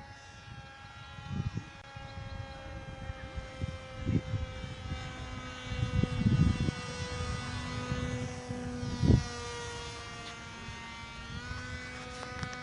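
Small motor and propeller of a handmade free-flight MQ-9 model aircraft buzzing steadily in flight, its pitch drifting slightly and stepping up near the end. Low thumps of wind on the microphone come now and then.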